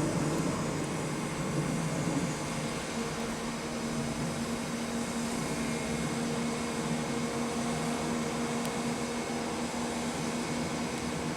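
Rough-terrain crane's diesel engine running steadily as it works a lift, with a steady hum that comes in about three seconds in and holds.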